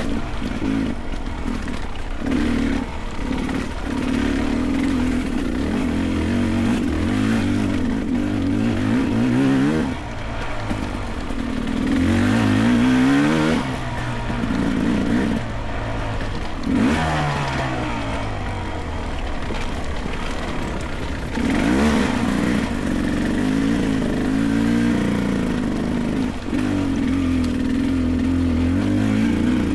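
Beta 300 Race two-stroke dirt bike engine revving up and down over and over, its pitch rising and falling every second or two as the throttle is worked.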